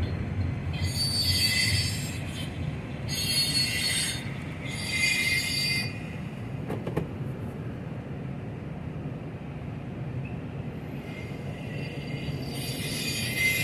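A container train rolling past with a steady rumble, its wheels squealing in short high-pitched bursts about every two seconds early on and again in a longer squeal near the end. A single click comes about seven seconds in.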